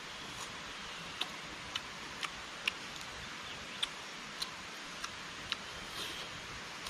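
Crunching and chewing of crisp grilled small game, bones included, heard as sharp separate crunches every half second to a second.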